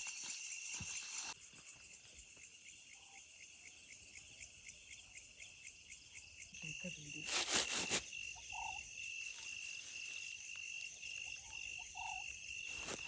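Tropical night-forest insect chorus: crickets and other insects chirring steadily in a fast pulsing trill, with a few short calls from frogs. A brief louder burst of noise comes about seven seconds in.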